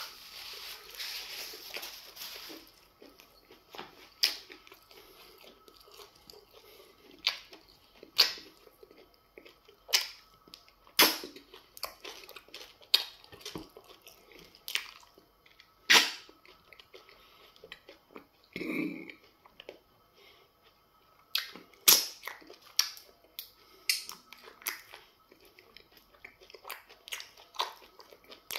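Close-up wet chewing and lip-smacking of semo fufu with okra soup, sharp smacks coming irregularly about once or twice a second. For the first couple of seconds a hissing rub of a tissue held to the nose.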